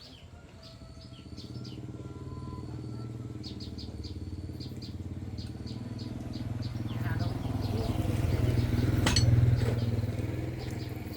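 A vehicle engine passing by, growing steadily louder to a peak about nine seconds in, then fading.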